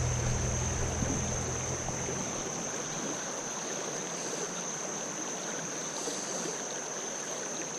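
Creek water running steadily over rocks, a fast-flowing stream. A constant high thin whine sits above it throughout.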